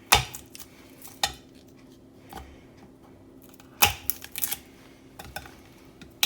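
Sharp knocks and clicks of a kitchen knife and utensils against a chopping board while garlic cloves are trimmed and peeled: about half a dozen scattered strikes, with a quick cluster about four seconds in.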